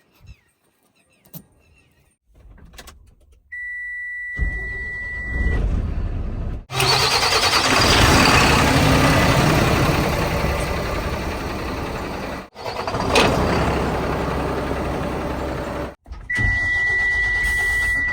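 Diesel engine of heavy earth-moving machinery running loud and steady, in several clips that cut off abruptly; a steady high beep sounds twice, first a few seconds in and again near the end.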